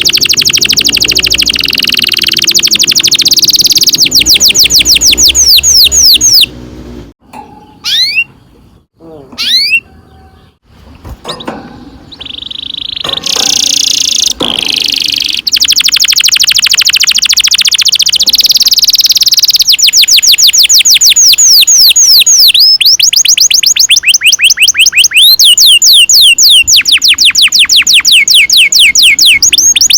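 Domestic canary singing long rolling trills: fast runs of rapidly repeated high notes, some as quick sweeping chirps. The song thins to a few scattered notes for several seconds about seven seconds in, then the rolls resume.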